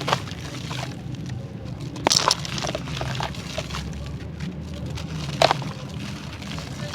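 Crunchy charcoal clay being crumbled, cracking and crunching in short bursts: once at the start, a cluster about two seconds in, and a loud crack around five and a half seconds in.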